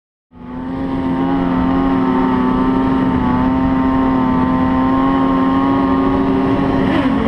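A steady engine drone at an unchanging pitch, starting abruptly out of silence about a third of a second in.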